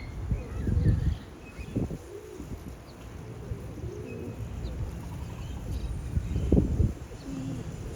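Pigeons or doves cooing softly and repeatedly, with a few faint higher chirps from small birds. Brief low rumbles about a second in and again near the end are the loudest moments.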